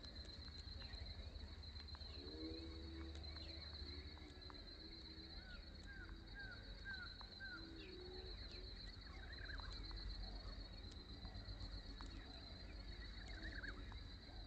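Outdoor waterside ambience: small birds chirping, over a steady high pulsing trill. A low, repeated animal call comes about two seconds in and again about eight seconds in.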